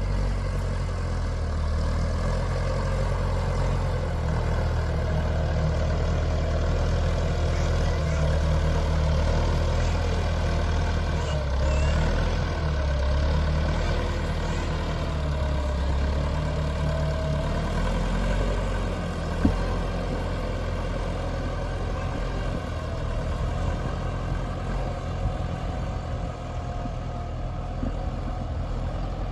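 A steady low rumble of an engine running, with a faint wavering whine above it and a single sharp click about two-thirds of the way through.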